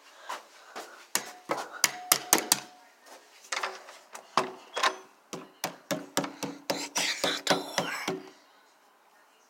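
Repeated knocking and banging on a wooden door, in quick irregular bursts, with the fastest pounding near the end before it stops.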